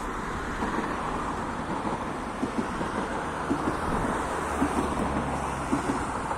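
A train running slowly past: a steady rumble with a low hum and irregular light knocks, with wind on the microphone.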